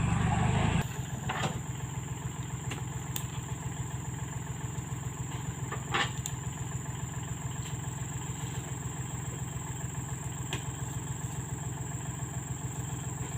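Diesel engine idling with an even, rapid pulse. It runs louder for about the first second, then settles to a steady idle. A few short clanks come over it, the sharpest about six seconds in.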